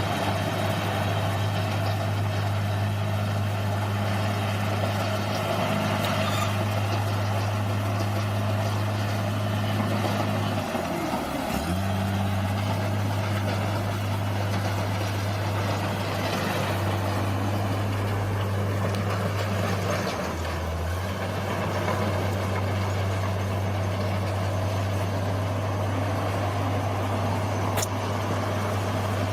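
Bulldozer's diesel engine running with a steady drone. Its pitch sags and recovers about eleven seconds in, as if the engine takes a load, and falters again briefly near the twenty-second mark.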